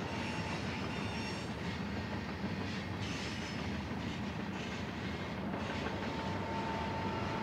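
Double-stack intermodal freight cars rolling slowly up the grade, a steady rumble of wheels on rail. A thin steady whine comes in about five and a half seconds in.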